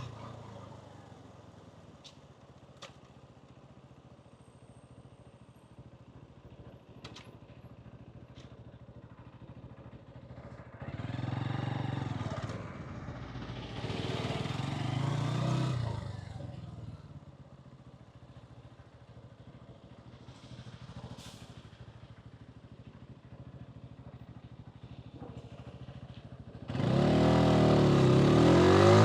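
125cc motorcycle running quietly at low revs, with other vehicle sounds swelling twice around the middle. About 27 seconds in, the engine revs up and accelerates away loudly, its pitch rising.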